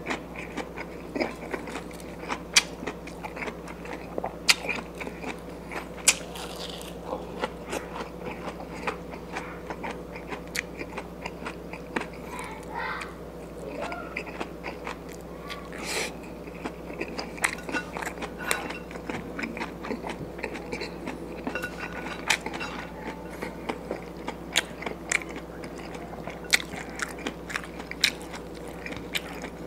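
Close-up eating sounds: a person chewing and crunching fried fish and rice, with many sharp irregular mouth clicks, over a faint steady hum.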